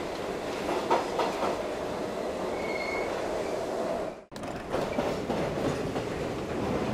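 A train rolling along rails with a steady rumble and clatter, and a brief faint high wheel squeal about three seconds in. The sound cuts out for an instant just after four seconds in, then carries on.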